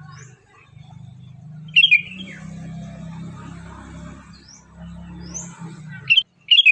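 Birds chirping: a few sharp, loud chirps about two seconds in and twice near the end, with thin rising whistles in between, over a steady low hum.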